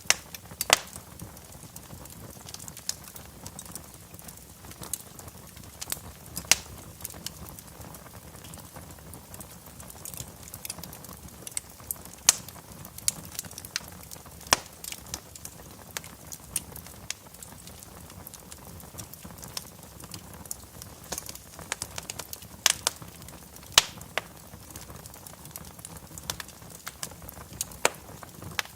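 Wood fire burning in a fireplace, crackling with irregular sharp pops over a low steady hiss.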